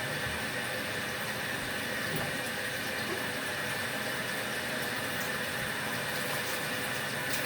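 Small portable washing machine's motor running steadily through a wash cycle, an even hum with a constant high whine.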